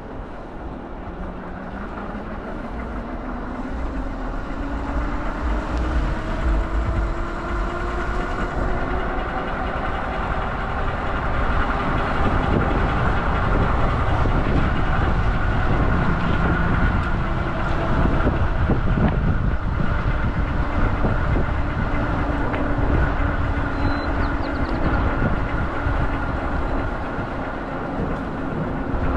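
Vehicle engine running over a deep rumble, its pitch rising slowly over about ten seconds and growing louder, then holding steady.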